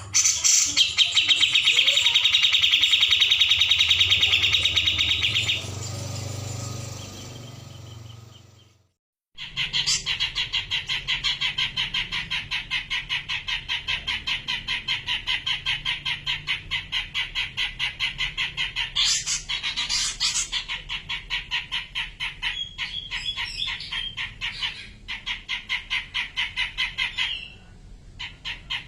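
Grey-cheeked bulbul (cucak jenggot) calling in a long run of fast, evenly repeated chattering notes, as played in a songbird training (masteran) recording. The sound cuts out briefly about nine seconds in, then the same rapid chatter resumes.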